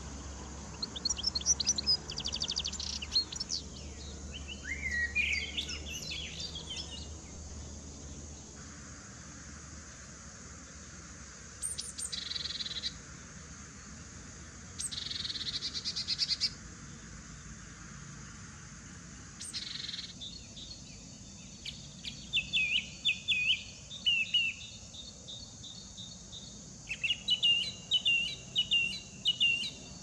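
Birds chirping and trilling in short bursts that come and go several times, with a steady hiss for a stretch in the middle.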